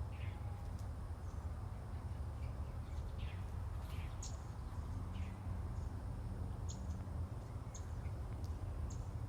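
Songbirds chirping, short high calls and falling notes scattered through the morning air, over a steady low rumble.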